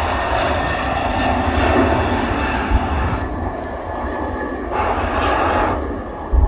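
Jet airliner's engines running as it comes in on approach: a steady rushing noise with a faint whine through it, the higher part fading and returning in the middle. A few low thumps at the very end.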